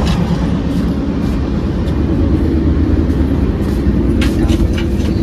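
Steady low rumble of a moving passenger train, heard from inside the coach, with a few short clicks about four seconds in.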